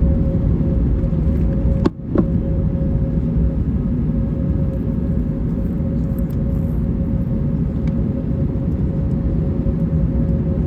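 Cabin noise of an Airbus A321neo airliner: a steady, loud rumble of engines and airflow with a constant hum. A brief dip with a sharp click comes about two seconds in.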